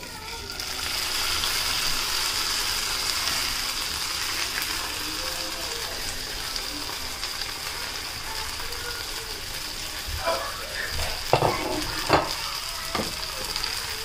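Mashed potato cake frying in oil in a nonstick pan: a steady hissing sizzle that swells up within the first second. A few sharp knocks against the pan near the end.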